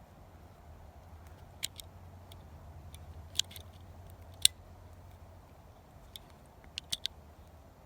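Scattered sharp clicks and taps of Glock pistol parts being handled while a steel guide rod and recoil spring are fitted, about eight in all, the loudest a little past halfway, over a low steady hum.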